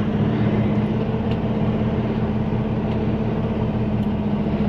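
Semi-truck diesel engine running steadily at low speed, a constant even hum.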